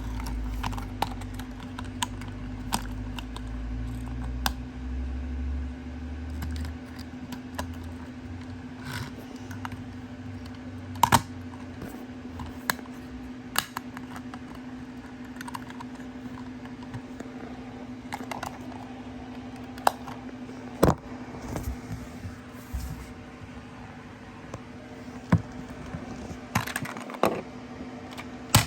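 Scattered sharp clicks and taps of a small 1:52 scale model garbage truck being handled, its small parts knocking and snapping, over a steady low hum. There is a low rumble in the first few seconds.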